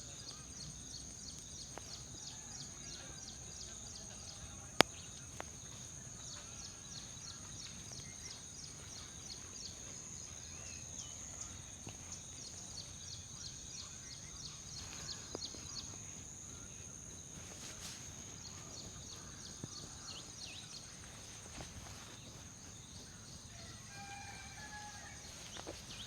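Faint outdoor ambience dominated by insects trilling steadily in rapid high-pitched pulses, with a single sharp click about five seconds in and a brief bird call near the end.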